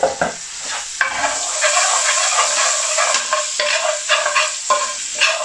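Garlic-ginger paste and whole spices sizzling in hot oil in an aluminium pan, stirred with a metal spoon that scrapes and clicks against the pan. The sizzling grows louder about a second in.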